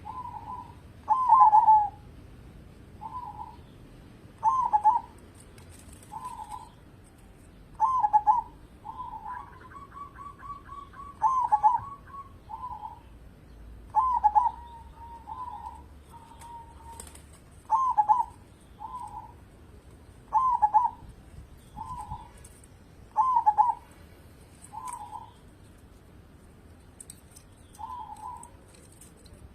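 Zebra dove (perkutut) cooing over and over: a loud coo phrase about every three seconds, with softer coo notes between. About ten seconds in, a longer rolling trill joins in, and faint high chirps come and go.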